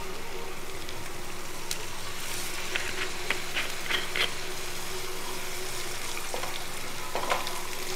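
Red chilli paste sizzling steadily in hot oil in a stainless steel pan, with a few light clicks and scrapes as a wooden spatula stirs it.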